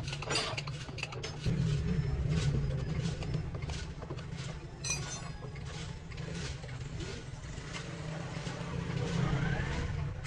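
A vehicle engine running steadily with a low rumble that grows louder about a second and a half in, with scattered clicks and knocks over it.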